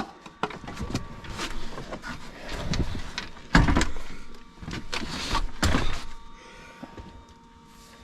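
Cabinet parts in a truck sleeper being handled and pulled apart: irregular knocks, clunks and scraping, with the heaviest thump about three and a half seconds in.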